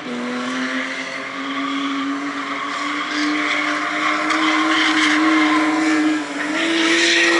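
Drift car on the track with its engine held at high revs and a steady pitch that steps up about six and a half seconds in, tires squealing as it slides.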